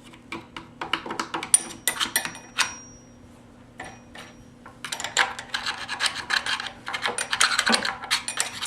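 A tool picking and scraping caked sawdust out of a chainsaw's housing: a run of small clicks and taps, a short pause, then dense scratching for the last few seconds.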